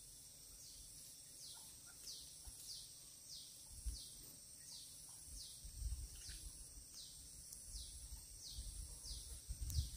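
Faint countryside ambience: a bird repeats a short high falling call about one and a half times a second over a steady high insect hum, with a few soft low rumbles.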